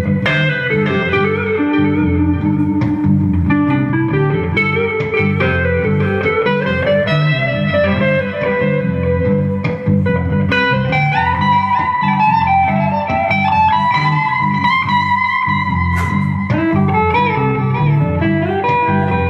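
Live band music led by an electric guitar playing a bluesy lead line, its long held notes bending and sliding in pitch over a steady low rhythm.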